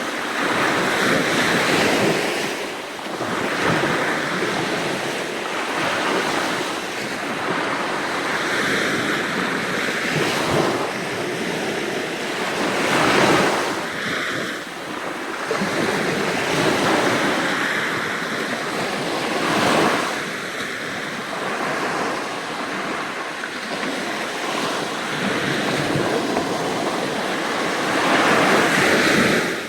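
Sea waves breaking and washing up on the shore, swelling and easing every few seconds, with wind blowing on the phone's microphone.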